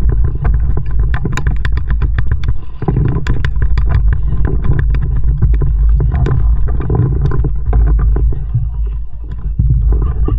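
Kayak being paddled: water splashing and dripping off the paddle with the strokes, over a heavy low rumble on the action camera's microphone.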